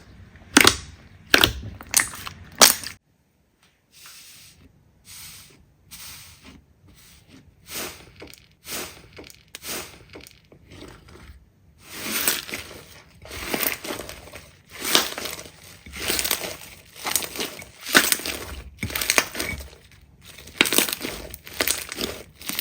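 Slime being squeezed and pressed by hands, making crunching, crackling pops. A few sharp snaps come in the first three seconds, then a short gap and faint crackling, then louder, denser crackling from about halfway through.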